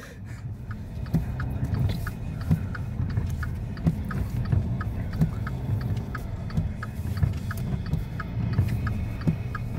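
A car's engine running, heard from inside the cabin as a steady low rumble, with a regular light ticking about three times a second over it.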